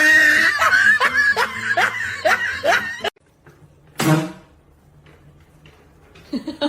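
A person laughing in a quick run of bursts, stopping abruptly about three seconds in. About a second later there is one short vocal cry.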